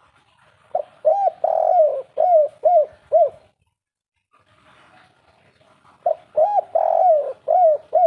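Spotted dove (derkuku) cooing: two song phrases a few seconds apart, each a short coo, a longer drawn-out coo, then three clipped 'kuk' notes. This is the 'kuk 3' song type prized by Indonesian dove keepers.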